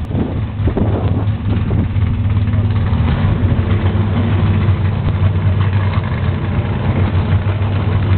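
Drag car engine idling, a steady low rumble with no revving.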